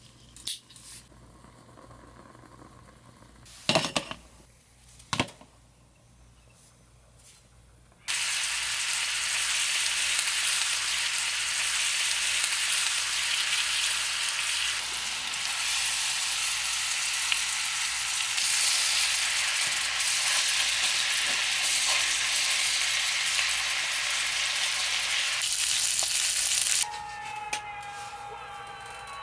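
Food sizzling in a hot pan: a steady hiss that starts suddenly about a quarter of the way in and cuts off near the end, after a quiet stretch with two sharp knocks.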